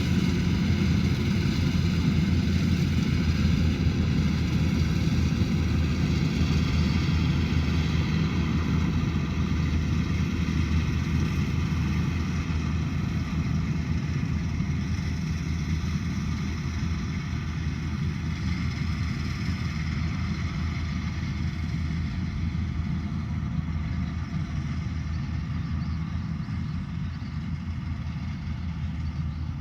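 Rice combine harvester's engine running steadily under load, with a constant low drone that slowly grows quieter.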